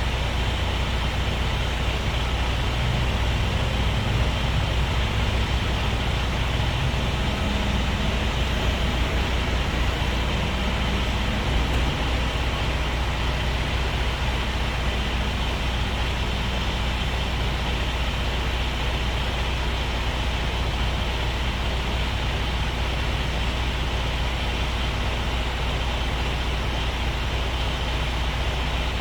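Diesel truck engine running steadily, with a deep, even low rumble.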